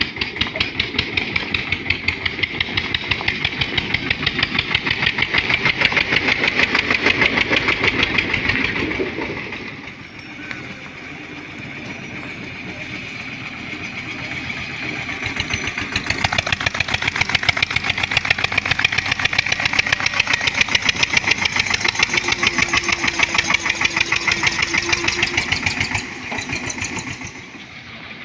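Eicher 242 tractor's diesel engine running with a clear, even firing beat. It eases off about nine seconds in, picks up again around sixteen seconds and eases off once more near the end.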